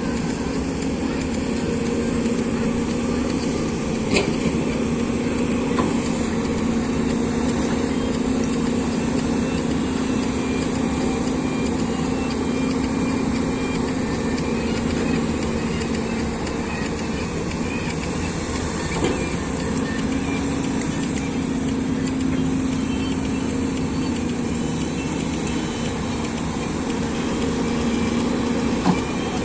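Excavator diesel engine running steadily, with a few short clicks or knocks from the machine's work.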